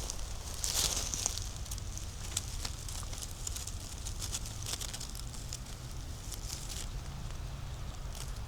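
Footsteps crunching through dry leaf litter and twigs on a forest floor: irregular crackles and snaps, thickest in the first second or so, over a low steady rumble.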